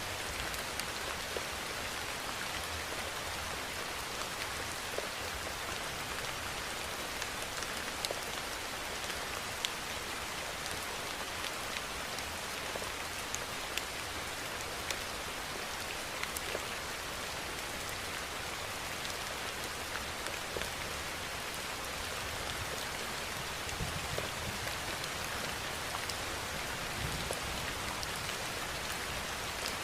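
Steady rainfall, an even hiss with many small drop impacts ticking on a surface throughout.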